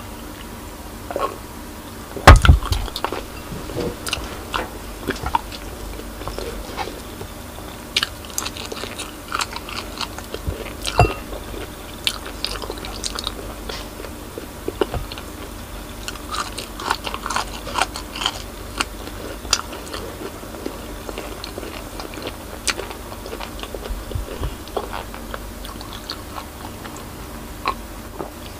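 Close-miked eating sounds: biting and chewing, with wet mouth clicks and smacks, while eating okra dipped in sauce. A heavy knock about two seconds in is the glass of cola set down on the wooden table.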